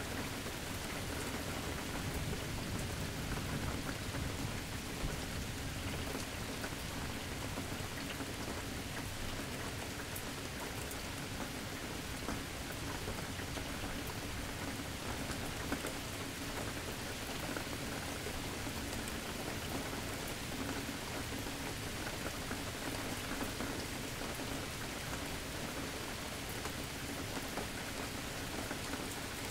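Steady rain falling, a continuous even hiss with a few sharper drop hits now and then.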